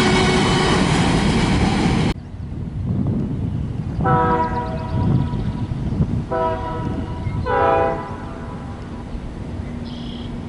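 Train passing close by with loud wheel and rail noise, which cuts off abruptly about two seconds in; then a diesel locomotive's multi-chime air horn sounds two long blasts and a short one.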